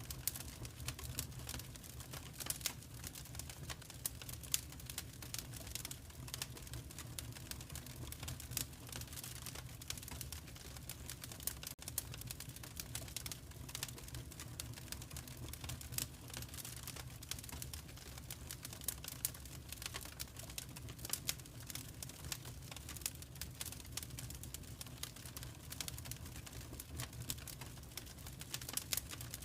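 Wood fire crackling, with frequent irregular small pops and snaps over a low steady rumble.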